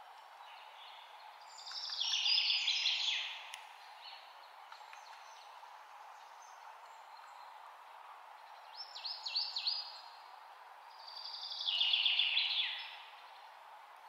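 Songbirds singing: a rapid trilled song phrase about two seconds in, a short run of quick chirps near the middle, and the same kind of trilled phrase again near the end, over a steady background noise.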